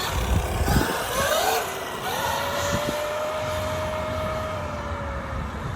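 Electric drive of a Traxxas XRT Ultimate RC monster truck whining as it speeds up. The pitch climbs in steps over the first two seconds, holds a steady tone, then eases down a little near the end, over a rumble of tyres on the road.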